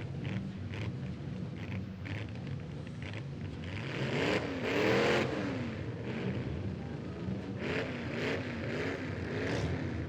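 Derby car engines revving up and down in repeated surges, the loudest about four to five seconds in, with scattered short knocks.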